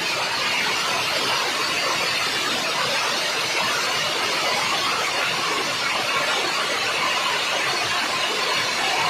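Gusty storm wind blowing, a steady rushing hiss with no thunder claps or other sudden sounds.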